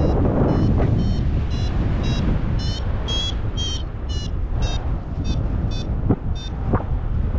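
Paragliding variometer beeping in short pulses about twice a second, the pitch rising in the middle and falling back, the tone that signals the glider is climbing in lift. Heavy wind noise buffets the microphone underneath.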